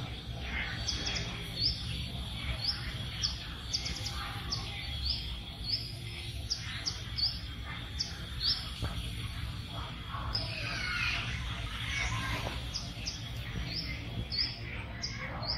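Birds chirping in a steady series of short, high, falling notes, about two a second, with a busier warbling call about ten seconds in, over a low background rumble.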